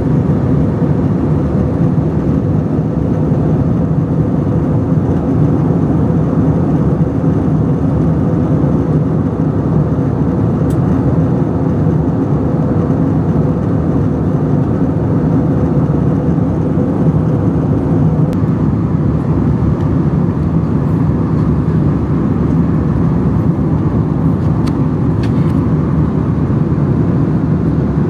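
Steady, loud drone of engines and rushing air heard from inside a moving vehicle's cabin, unchanging throughout.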